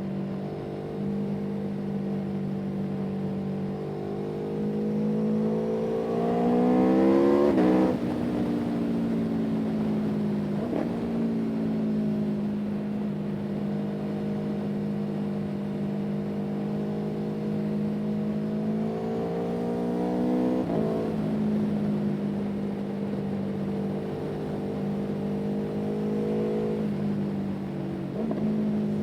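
Motor vehicle engine running steadily under way. Its revs climb and then drop back suddenly several times, as at gear changes.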